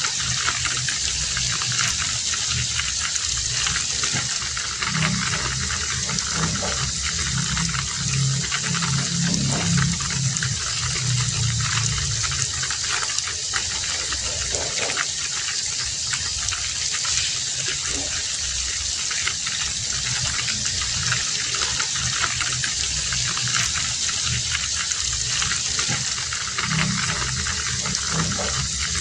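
Heavy rain falling steadily, with a low rumbling undertone that swells for a few seconds at a time.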